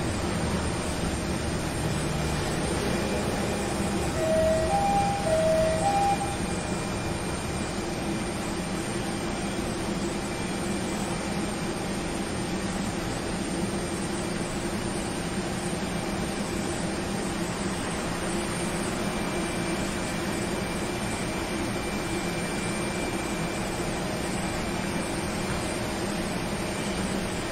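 A steady vehicle drone runs throughout. A few short high beeps, alternating between two pitches, sound about four to six seconds in.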